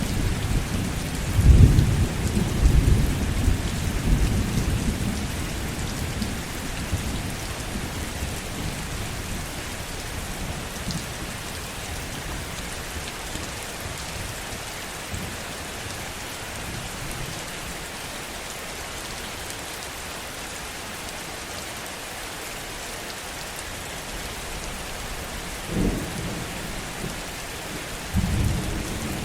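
Steady heavy rain with thunder: a low thunder rumble rolls through the first few seconds and fades away, then two short low rumbles come near the end.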